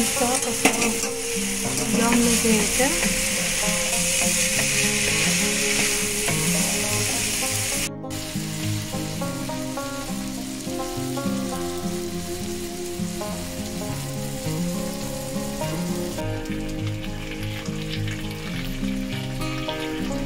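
Chow mein noodles sizzling as they are stir-fried in a wok, over steady background music. About eight seconds in there is a sudden cut, and after it the sizzle is much fainter while the music carries on.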